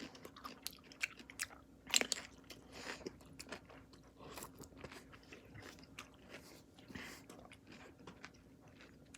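A person chewing a mouthful of big sour pickle: faint, wet crunches and mouth smacks, one louder crunch about two seconds in.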